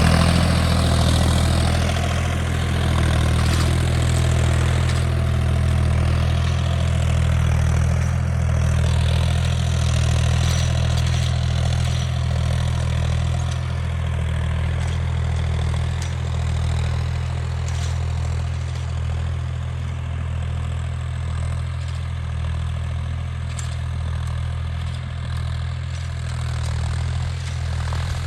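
Tractor engine running at a steady speed, a deep even drone.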